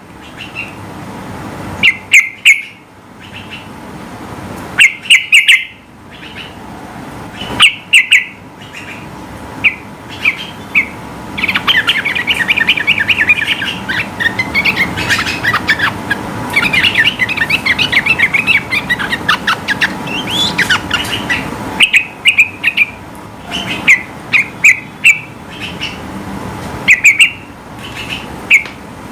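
Yellow-vented bulbul (trucukan) singing: loud short phrases every two or three seconds, then a long, rapid run of song for about ten seconds from roughly a third of the way in, then short phrases again.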